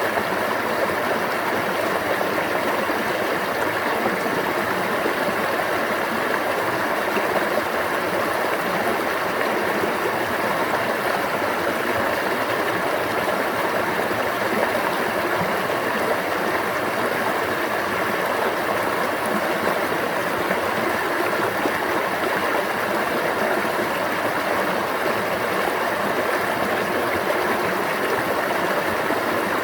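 Stream water running and babbling steadily, an even rush without pauses.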